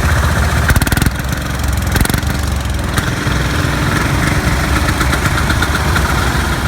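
Small garden tractor engine running steadily, with a few sharp knocks or clicks about a second in.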